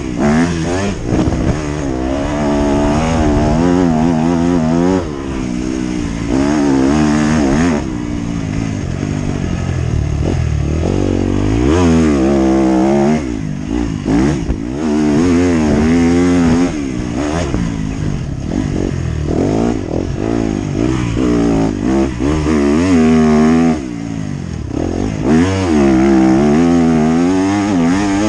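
Motocross bike engine revving hard and easing off over and over, its pitch climbing and dropping again every few seconds as the throttle is opened and closed.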